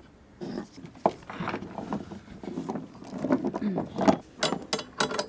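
Metal clatter and sharp knocks of an anchor, shackle and chain being handled and fitted together, irregular, with the loudest knocks about a second in and again around four and five seconds in.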